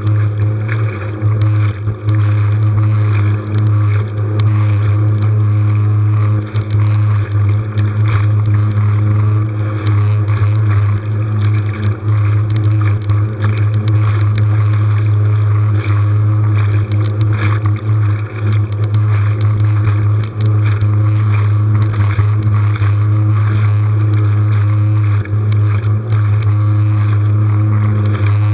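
A motorized kayak's small motor running steadily at one constant pitch, with water and wind noise over it.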